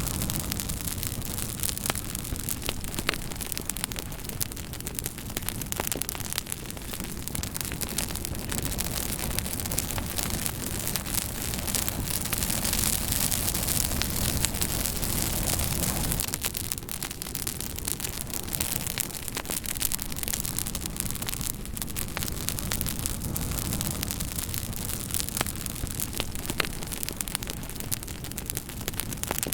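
Campfire crackling: a steady hiss of burning wood with many small sharp snaps and pops scattered through it. The fire swells louder for a few seconds around the middle, then drops back suddenly.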